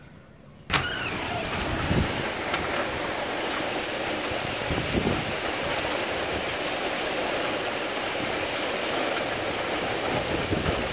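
Heavy downpour of rain hissing steadily on pavement, cars and foliage, cutting in suddenly and loud about a second in, with a few low bumps.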